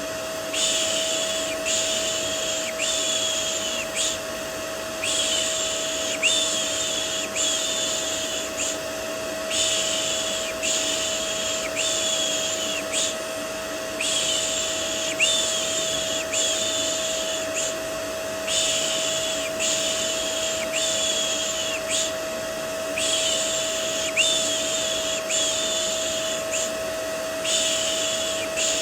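Vacuum cleaner running steadily with a constant hum, overlaid by a rhythmic shushing 'shh' about once a second in runs of four or five with short pauses: a white-noise loop for soothing a baby to sleep.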